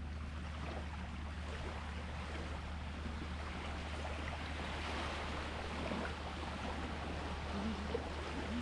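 Sea water washing and lapping as a steady rush, with a constant low hum underneath.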